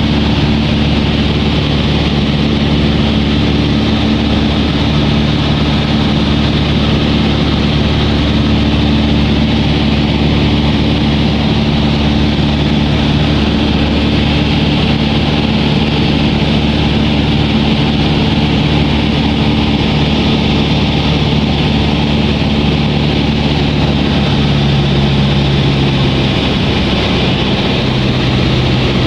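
Old propeller aeroplane's engine droning steadily in flight, heard from inside the cabin, with a slight drop in pitch near the end.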